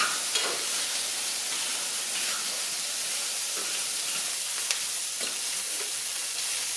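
Chicken pieces, onion and bacon sizzling in oil in a skillet over medium heat: a steady frying hiss with a few light clicks.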